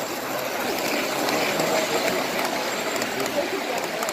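An O scale two-rail model train running on the layout track with a steady mechanical rattle and scattered small clicks, under a murmur of many voices.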